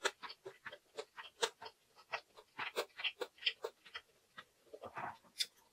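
Close-miked chewing of a mouthful of food: irregular wet clicks and small crunches, several a second, with a fuller, lower sound about five seconds in.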